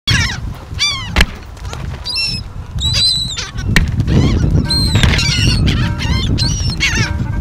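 A flock of laughing gulls calling over one another in a feeding frenzy, with many short, harsh calls that fall in pitch. Two sharp knocks, about a second in and near the middle, and a low rumble underneath that grows louder in the second half.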